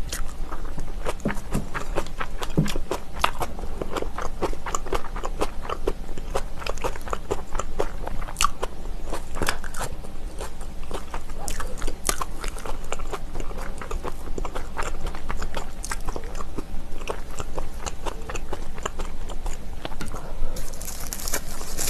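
A person chewing and crunching food close to the microphone, with dense, irregular crisp crunches and wet chewing throughout.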